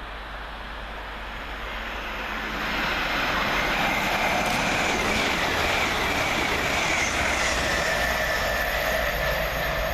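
LUMO Class 803 all-electric train passing through the station: the rail noise builds over the first three seconds, then holds steady. A high whine drops slightly in pitch about seven seconds in.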